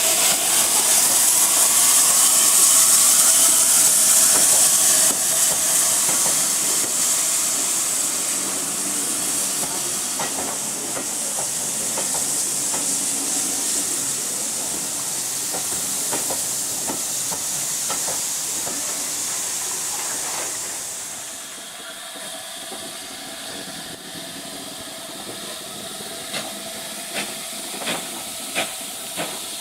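Steam locomotive venting steam with a loud, steady hiss that dies away about two-thirds through. Near the end a run of short sharp beats follows, a little under one a second.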